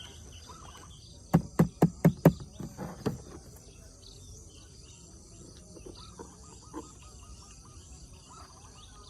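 Outdoor background of insects and chirping birds. About a second in, a quick run of five loud short thumps is followed by a few fainter ones.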